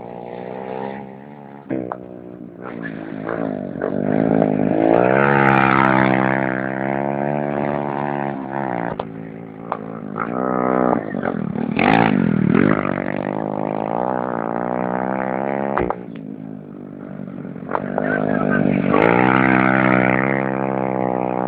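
Racing motorcycle engines revving, the pitch rising and falling with throttle and gear changes. It swells louder about a quarter of the way in, around the middle and near the end, as bikes come close.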